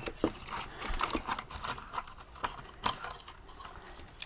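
Irregular light clicks and taps of small plastic parts and screws being handled while a plastic toy tank's casing and gearbox are taken apart.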